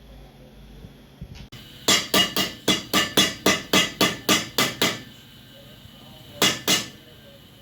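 Cobbler's hammer striking a boot sole being resoled: a run of about a dozen quick, even blows at roughly four a second, then two more blows a second and a half later.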